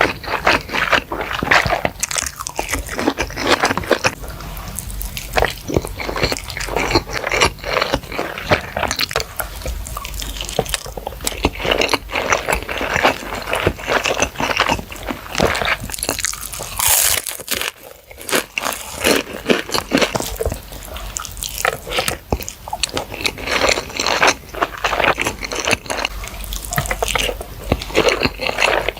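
Close-miked mouth sounds of someone biting and chewing spicy baby squid: a dense run of quick wet, crunchy clicks, with a brief lull a little past halfway.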